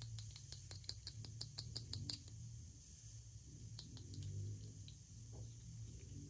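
Packaging being handled: rapid small clicks and crackles, dense for the first two seconds, then scattered, over a low steady hum.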